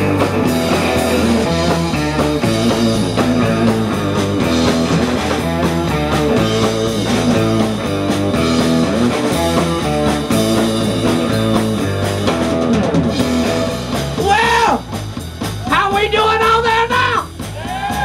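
Live electric blues band playing an instrumental passage between sung lines: electric guitar over bass and drum kit with a steady beat. Near the end the backing thins and a few long, sliding high notes stand out.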